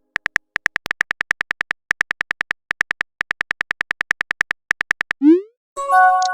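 Chat-app typing sound effect: fast, even ticks in short runs, about seven a second, for about five seconds. Then a quick rising chirp as a message is sent, and a ringing chime near the end.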